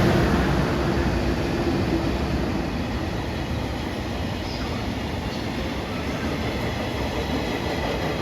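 Freight train of two EH500 electric locomotives and five tank wagons passing through a station. Steady wheel-on-rail rumble with clacking over rail joints, easing off over the first few seconds and then holding level.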